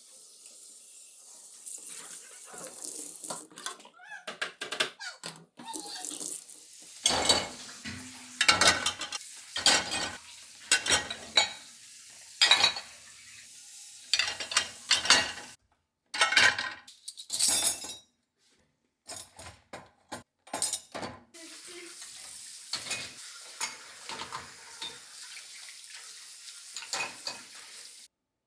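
Kitchen work at a sink: water running, with dishes and utensils clinking and clattering many times.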